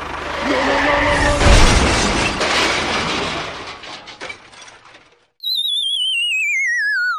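A loud crashing, shattering clatter that fades out over about four seconds. After a brief silence comes a wavering whistle-like tone that falls steadily in pitch, like a cartoon falling sound effect.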